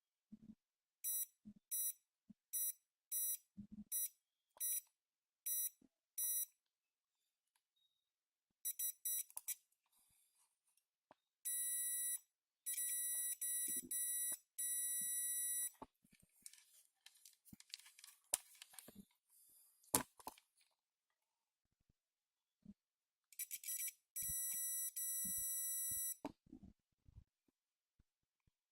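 Multimeter continuity buzzer beeping as the probes touch points on a mobile phone's circuit board: a run of short, evenly spaced beeps, then longer held beeps, with light clicks between. A beep here means continuity, the sign of a short circuit on the board.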